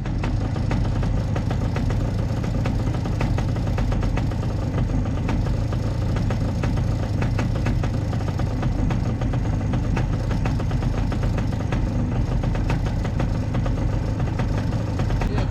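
An engine running steadily at an even speed, a low hum with many faint ticks over it.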